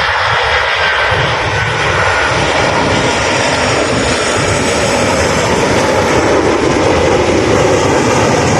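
Airliner's engines passing close overhead, a loud steady roar with a faint whine on top.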